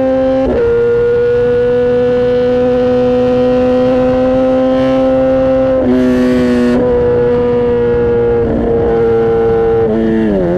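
Kawasaki ZX-10R inline-four engine running at steady high revs under way, its exhaust note holding a near-constant pitch with small steps. Near the end the pitch dips sharply and comes back up, and there is a brief burst of hiss about six seconds in.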